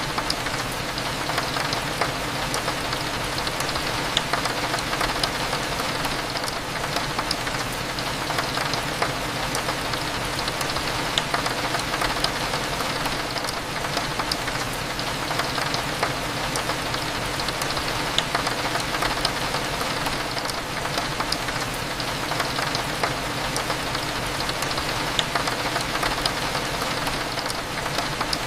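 Steady rain falling on a window, with scattered drop ticks, over a low steady hum.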